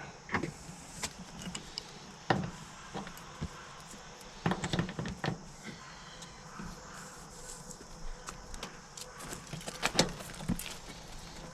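Scattered clicks and knocks of hand tools and metal fittings being handled while line-set connections are snugged up, with a few sharper knocks about two seconds in and near the end.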